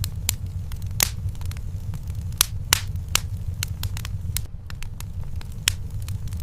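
Wood fire crackling in a fireplace: irregular sharp pops and snaps, a few louder ones about a second in and around two and a half seconds in, over a steady low rumble.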